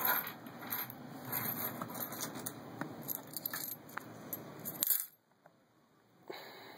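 Pennies clinking one after another as a batch of ten is dropped into a small homemade boat, a run of light clicks that stops about five seconds in.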